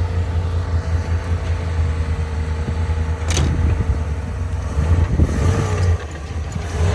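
The engine of a 1989 Dodge D100 pickup runs steadily, just revived after long sitting, with a sharp click about three seconds in.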